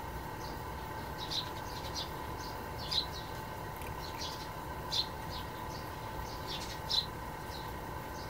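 A small bird chirping in short, high calls every second or two, over a faint steady tone.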